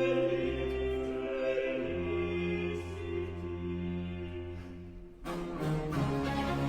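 Baroque orchestral music with bowed strings: sustained chords thin out and fade, and about five seconds in the full ensemble comes back in with a louder passage.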